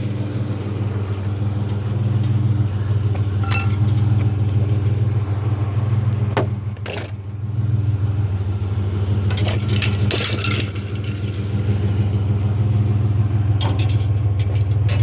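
Pickup truck engine idling with a steady low hum, with a few brief clatters and knocks of items being handled about a third of the way in, near the middle and again shortly after.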